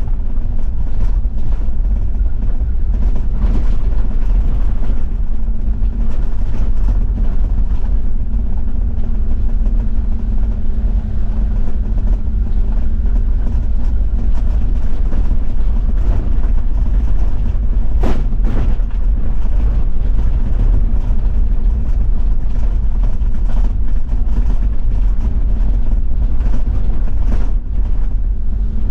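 Toyota Land Cruiser 70-series diesel driving on an unpaved forest road: a steady engine drone with the rumble of tyres on gravel, broken by scattered knocks and clicks, one sharper knock about two-thirds of the way through.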